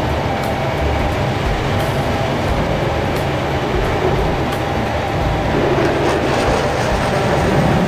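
Steady rumble of an Airbus A380's jet engines, with a faint steady whine over it.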